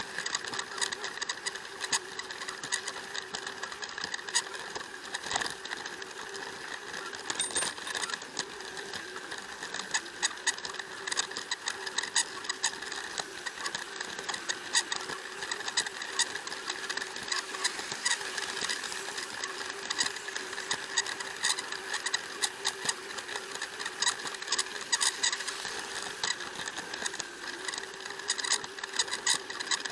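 Plarail toy train's small battery motor running with a steady whine, its plastic wheels clicking irregularly over the track joints.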